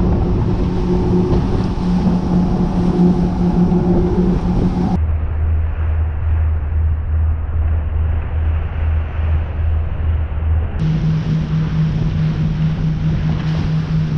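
Boat engine running steadily under way, with wind and water noise. About five seconds in the drone turns lower and more muffled, and near eleven seconds it switches back.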